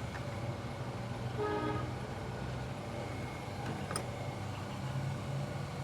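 Steady low mechanical hum, with a short pitched tone like a horn about one and a half seconds in and a faint click near the end.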